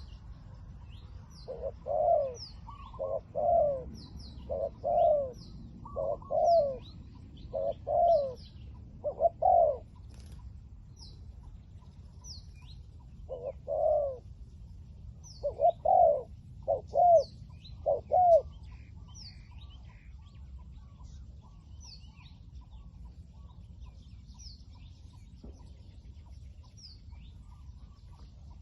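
Spotted dove cooing: a run of coo notes, mostly in pairs and threes, that stops about two-thirds of the way through. Small birds chirp faintly and high in the background.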